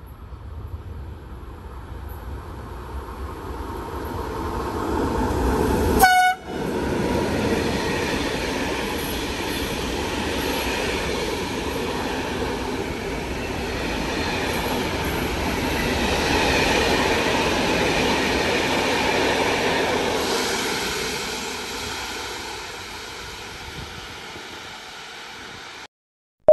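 A train passing through the station at speed. Its rumble builds as it approaches, and a short horn blast sounds about six seconds in. The passing wagons make a steady rushing rumble that fades away over the last several seconds.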